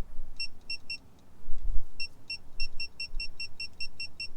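Rapid high-pitched electronic beeping, a short beep about five times a second, sparse at first and steady from about two seconds in, over a few low thumps.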